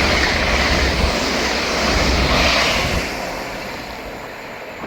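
LNER Class 800 Azuma bi-mode train passing through at speed on its underfloor diesel engines, a loud rumble of engines and wheels. About three seconds in it starts to fade as the train moves away.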